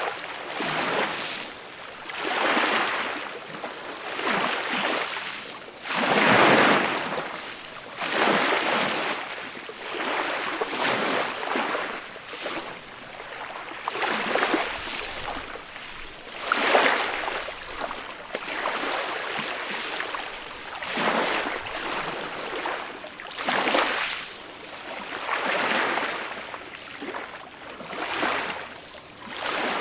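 Small, gentle sea waves breaking and washing up a beach, each one a soft swell of surf that rises and falls every two seconds or so; a bigger wave breaks about six seconds in and another a little past midway.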